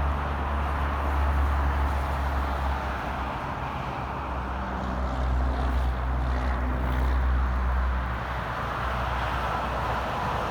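Heavy truck traffic on an interstate highway: a steady, low diesel engine drone mixed with the hiss of tyres on the road, swelling slightly and easing off several times.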